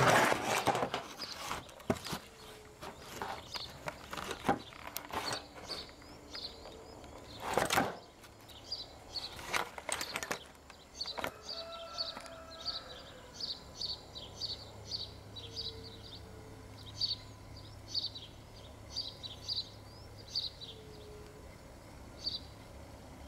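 Knocks and rubbing of the camera being handled during the first ten seconds or so, then a bird chirping short high notes over and over.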